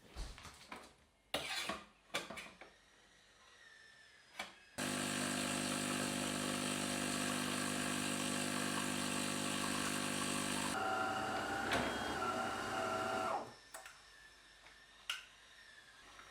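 A small electric motor runs steadily for about six seconds after a few clicks and knocks, then changes to a different wavering tone for a few seconds and cuts off suddenly.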